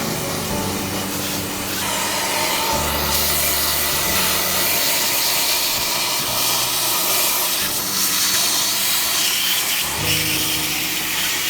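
Steady rushing hiss of air from a powered cleaning tool working over the condenser unit, with electronic background music underneath.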